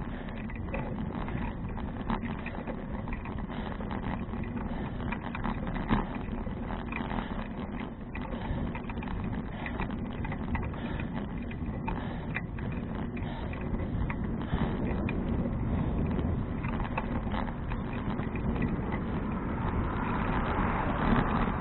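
Bicycle in motion: steady wind and rolling tyre noise with scattered small clicks and rattles from the bike, the wind hiss growing louder near the end.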